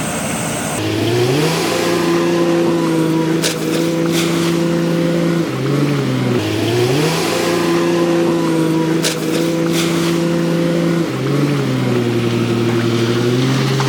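Backhoe loader's diesel engine revving up and holding at high revs. It drops back and revs up again about six seconds in, then settles to a lower steady speed near the end.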